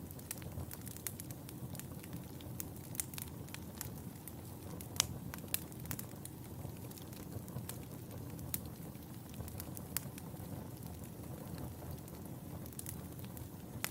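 Wood fire burning in a fireplace: a steady low rumble of flames with frequent sharp crackles and pops, the loudest pops about five seconds in.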